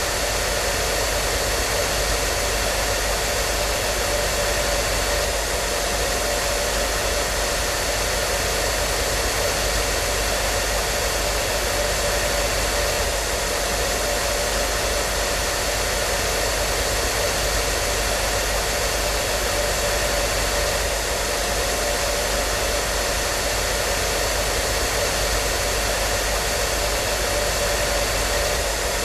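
Hair dryer running steadily: an even, unbroken blowing hiss with a steady motor hum underneath.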